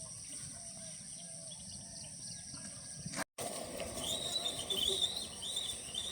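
Outdoor rural ambience: a steady high-pitched insect drone, and from about four seconds in a bird chirping in quick repeated phrases. The sound cuts out completely for a moment just after three seconds.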